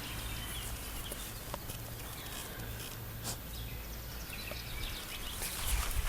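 Scattered faint bird chirps over a steady low background rumble.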